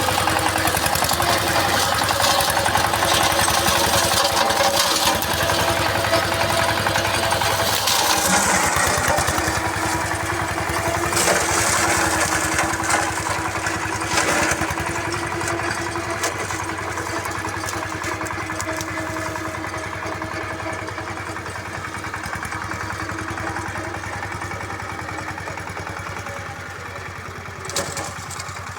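Mini four-wheel tractor's single-cylinder ZS1105 diesel engine, rated at 18 HP, running steadily while it works a brush slasher, with a few brief louder noisy surges in the first half. The sound slowly grows fainter.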